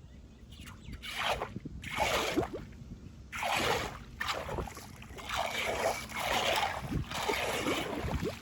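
Repeated wet, rustling swishes, about six strokes roughly a second apart, with a few dull thuds: debris being pulled and scraped out of flood water at a clogged drain grate.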